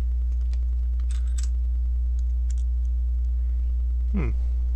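A steady low electrical hum, with a few faint clicks and rustles of plastic LEGO pieces being handled over it.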